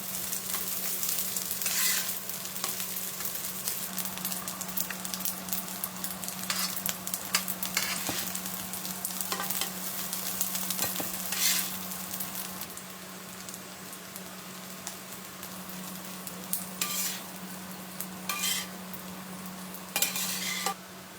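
Food sizzling and crackling as it fries in a pan or on a grill while being stirred, flaring louder for a moment several times.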